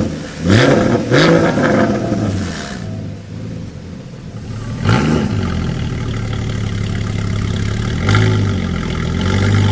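Porsche Cayman GT4's 3.8-litre flat-six, breathing through a Fabspeed Valvetronic exhaust, blipped about five times while stationary. Two quick revs come close together at the start, then single revs about five seconds in and twice near the end, each falling back to idle.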